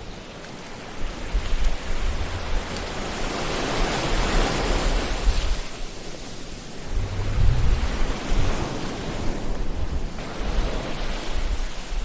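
Ocean waves washing onto a shore: a steady rush of surf that swells and subsides in slow surges, with low rumbling among them.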